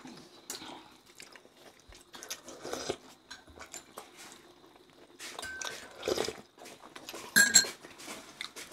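Chewing and mouth noises of people eating steamed beef momos. Scattered small clicks and knocks run through it, and the loudest come a little after six seconds and about seven and a half seconds in.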